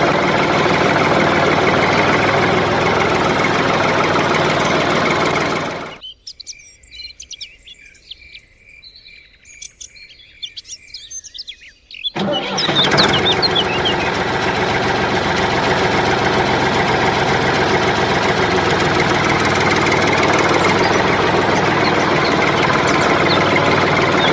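Mini tractor's small engine running steadily. It cuts off abruptly about six seconds in, leaving birds chirping, including a quick run of about ten evenly spaced chirps. The engine comes back abruptly about twelve seconds in and runs steadily again.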